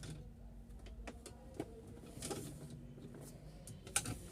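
A few faint scattered clicks and taps over a low background hum, with one sharper click near the end.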